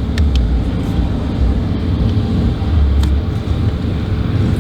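1992 Chevrolet Camaro RS driving: a steady low engine and road rumble while cruising.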